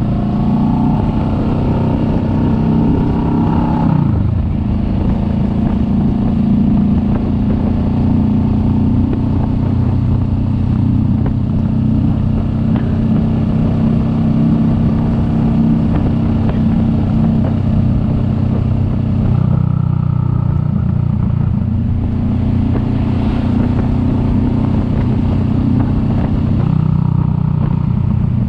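Kawasaki Vulcan S 650's parallel-twin engine running under way. Its revs rise over the first few seconds and drop about four seconds in, and the engine note shifts again near twenty and twenty-seven seconds.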